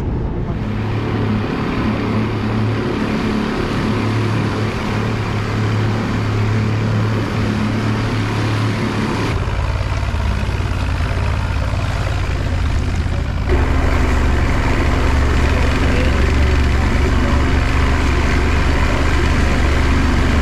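A boat engine runs steadily over wind and water noise. Its note shifts about nine seconds in and rises again a few seconds later, as the throttle changes.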